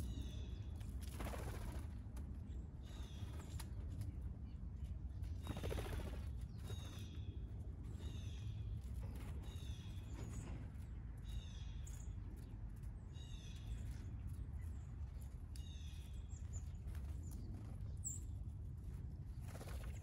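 A wild bird calling over and over with short, high, downslurred notes, about one a second, over a steady low rumble. A few soft rushing swells of noise rise and fade, the clearest about a second in and around six seconds in.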